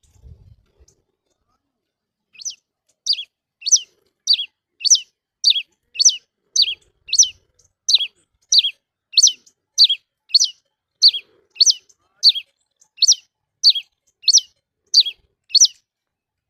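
A cravina singing: more than twenty identical short notes, each a quick falling whistle, repeated evenly at about one and a half per second, starting a couple of seconds in.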